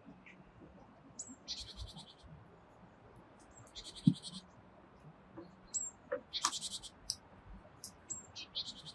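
Black woodpecker pecking at wood while foraging: scattered, irregular knocks, the loudest about four seconds in. High, thin chirps and short, high trills from small birds come through between the knocks.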